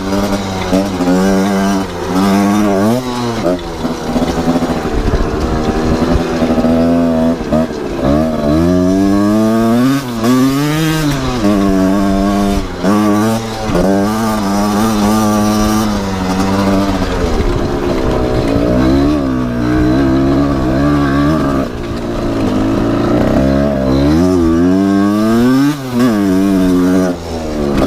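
Kawasaki KR two-stroke engine in a converted Honda CRF250R dirt bike, revving up and down again and again, with a few bigger revs in between.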